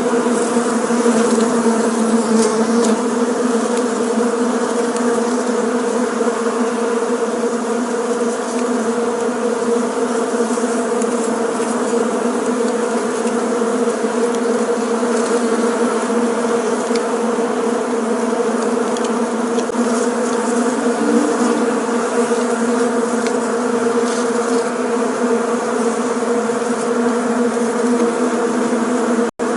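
Bees buzzing together in a steady, dense hum. The sound cuts out for an instant near the end.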